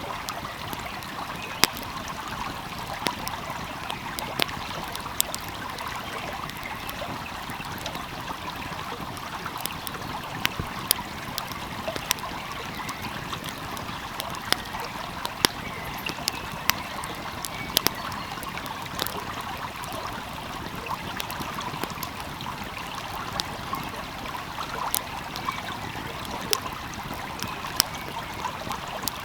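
Steady rush of a flowing stream, with a wood fire crackling over it in frequent, irregular sharp pops.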